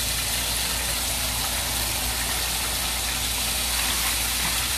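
Steady sizzle of stuffed chicken wings frying in oil, over a low steady hum.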